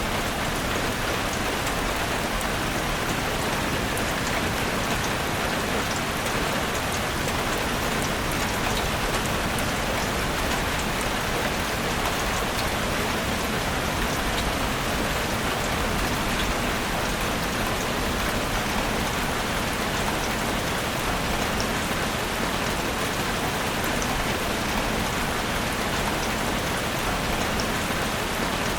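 Steady rain falling in a forest, a continuous even hiss with scattered drops ticking on leaves and surfaces.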